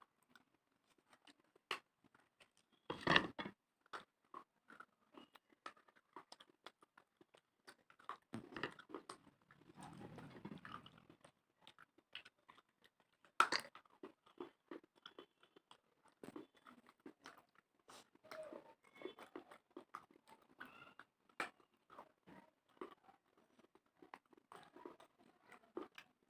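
Dry baked clay being bitten and chewed: irregular sharp crunching and crackling, with harder bites about three seconds in and again about halfway through.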